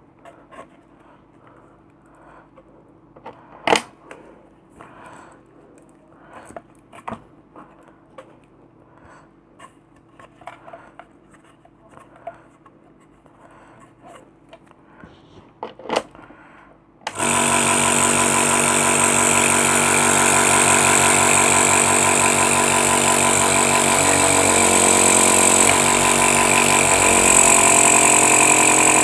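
Scattered handling clicks and knocks, then about seventeen seconds in a compressor nebulizer's small air compressor switches on and runs with a loud, steady buzz. The machine is running again after its power cable was replaced.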